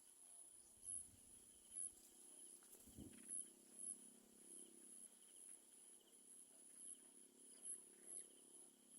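Faint, high-pitched insect chirring, pulsing evenly about twice a second, with a soft low thump about three seconds in.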